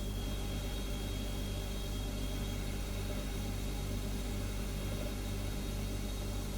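Refrigerator humming steadily: a low, even hum with a hiss over it. A faint high whine fades out about two and a half seconds in.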